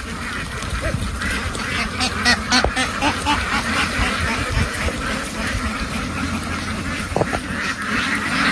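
A large flock of domestic ducks quacking, many calls overlapping into a continuous clamour, with a low rumble beneath.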